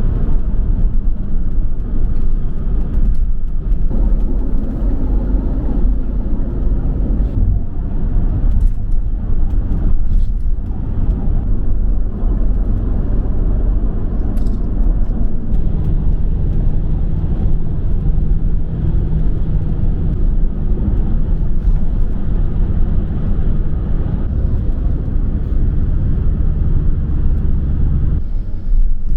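A road vehicle on the move: a steady low rumble of engine and road noise.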